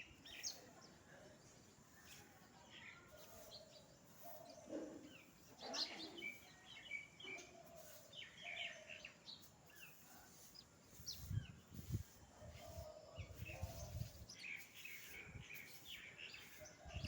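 Faint birds chirping: many short, scattered calls overlapping throughout. A few low rumbles come about eleven to fourteen seconds in.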